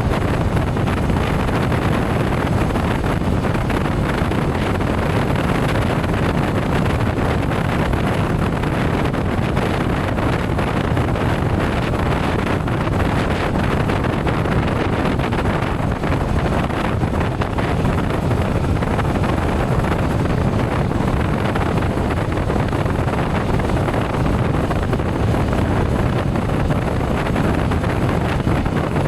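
Steady wind rush over the microphone of a motorcycle at cruising speed, with the engine and road noise blended beneath it.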